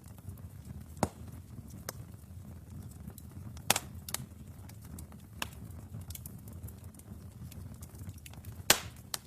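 Wood fire burning in a fireplace with a steady low rush, crackling with scattered sharp pops; two loud snaps stand out, about four seconds in and near the end.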